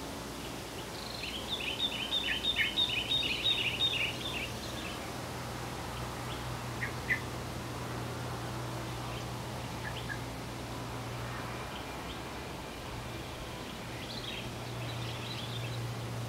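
Birds chirping: a rapid run of high chirps starting about a second in and lasting about three seconds, then a few short scattered chirps and another brief flurry near the end, over a steady low hum.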